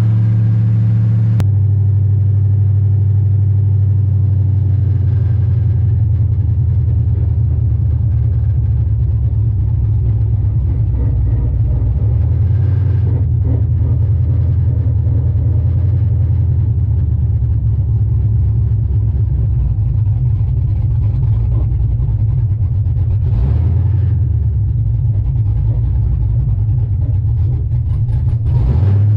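LS-swapped V8 in a 1995 Chevy 1500 pickup running on open headers with no exhaust, a steady, very loud drone while cruising down the road.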